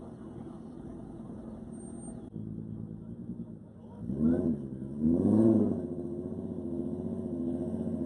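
Car engines at a drag strip start line: first a steady idle, then the throttle is blipped twice, about four and five seconds in, the pitch rising and falling each time, before settling back to an even idle.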